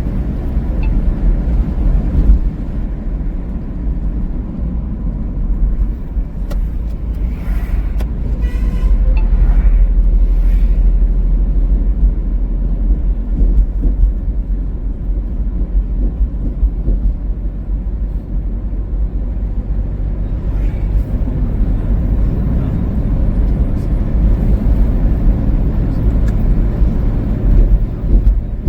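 Car driving along a highway: a steady low rumble of road and driving noise, with a brief higher-pitched sound about eight seconds in.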